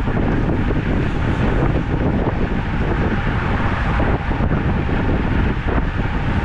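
Wind buffeting the camera microphone of a rider on a moving road bike: a steady, rushing low-pitched noise with small flutters and no tones.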